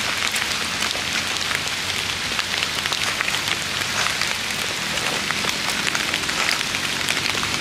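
Steady drizzle of rain falling, an even hiss dotted with many small drop ticks.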